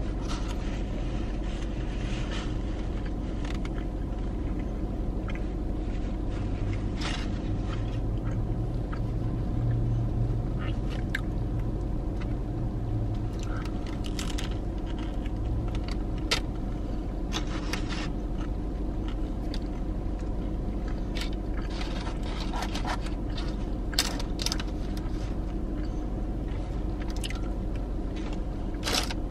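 Close-up eating sounds: chewing and biting into a ciabatta sandwich, with scattered clicks and crackles of a paper wrapper and a plastic fork, over a steady low hum from the car.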